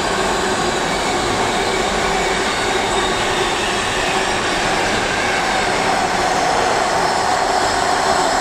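Container freight train's wagons rolling past on the rails: a steady, loud rumble and rattle of wheels on track, with a faint steady ringing tone.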